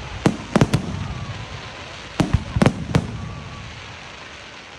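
Fireworks display: aerial shells going off in sharp bangs, three in quick succession early in the first second and four more about two seconds in, over a low rumble that dies away afterwards.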